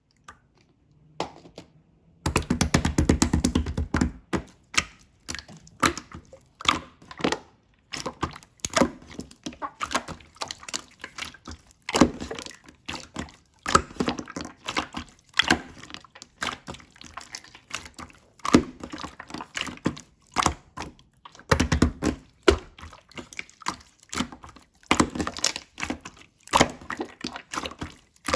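Slime being squished and pressed by hand: a steady run of irregular small clicks, pops and squishes, with a denser, louder stretch about two seconds in.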